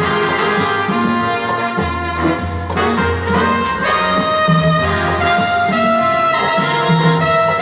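Instrumental music played live on an electronic keyboard: a trumpet-like brass voice carries a slow melody over a bass line and keyboard accompaniment.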